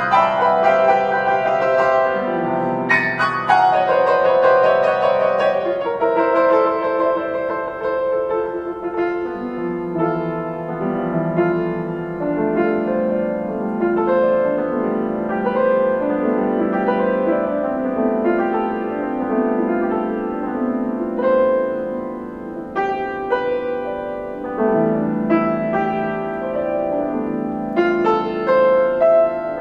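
Solo piano playing sustained chords and struck notes, with loud struck chords near the start and again near the end.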